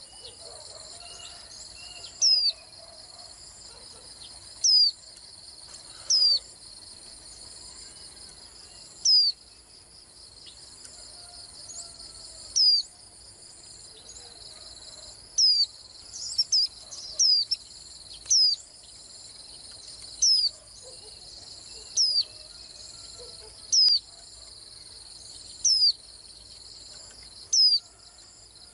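A white-eye calling: a short, high, sweeping note repeated about every two to three seconds, with a quick flurry of notes about halfway through. Insects (crickets) trill steadily underneath.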